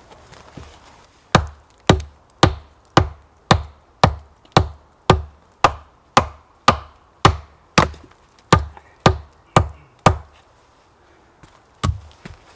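A tool striking wood in a steady rhythm, about two blows a second, some seventeen in a row, then a pause and one more blow near the end.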